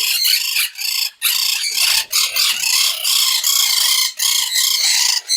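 A crowd of caged parrots, monk parakeets among them, chattering and screeching together in a loud, continuous high-pitched din.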